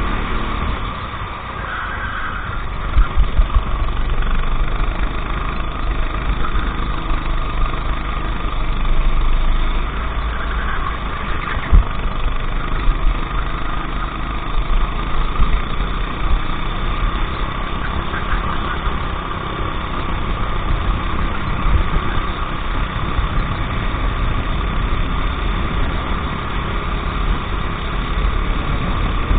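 Go-kart engine running through a race lap, holding a fairly steady note with small rises and dips, over heavy low rumble and a few sharp jolts.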